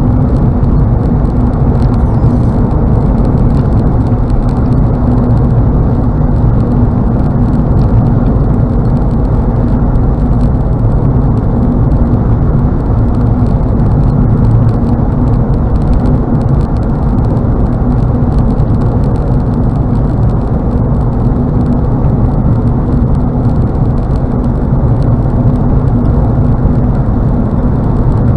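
Steady road and wind noise inside a car cabin at highway speed: a constant low rumble of tyres and air with no changes.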